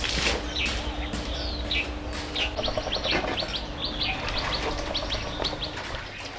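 Small birds chirping, many short high chirps a few a second, over a steady low rumble of background noise.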